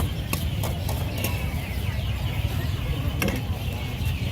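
Busy market hubbub: a steady low rumble under distant background voices, with scattered sharp clicks and clacks.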